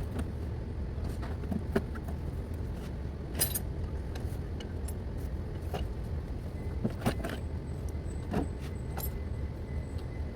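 Scattered sharp metallic clinks and knocks of hand tools and car parts being handled, over a steady low rumble.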